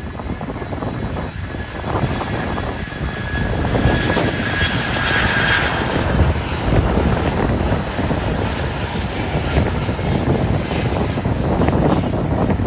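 Aircraft engines of a passing plane: a loud rumble with a faint high whine, building over the first few seconds and then holding.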